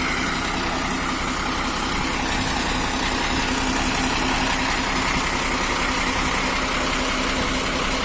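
Diesel engine of a Nissan Diesel (UD) PK260 tractor head idling steadily.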